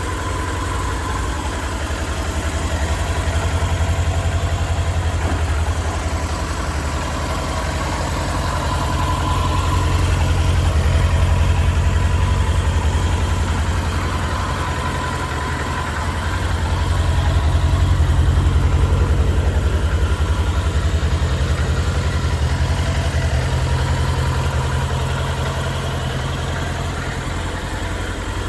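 Suzuki RF900R's inline-four engine idling steadily, with an even low rumble whose loudness slowly swells and fades several times.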